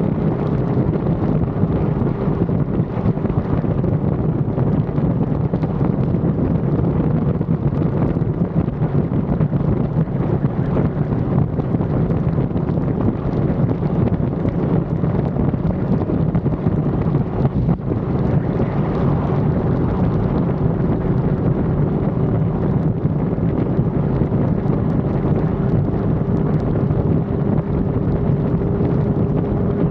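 Yamaha R1 sport bike's inline-four engine holding a steady note at cruising speed, with heavy wind rush on the action camera's microphone.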